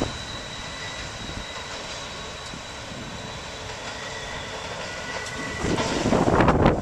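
A train running past, a steady rumble that grows much louder and rougher about five and a half seconds in.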